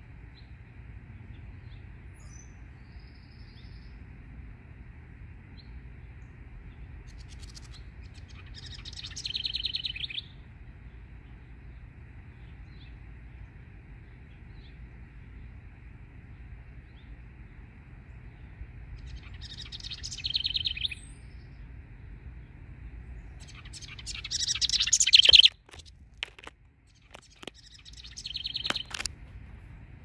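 A bird giving agitated scolding calls in four bouts of a second or two each. Each bout builds in loudness and then stops abruptly, and the loudest comes about 25 seconds in. A steady low hum runs underneath.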